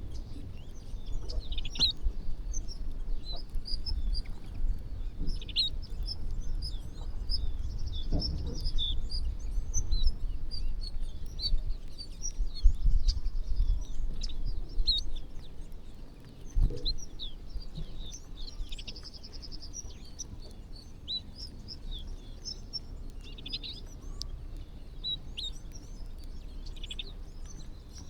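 A flock of small birds chirping together: a dense, overlapping chatter of short high chirps. A low rumble sits underneath and is stronger in the first half.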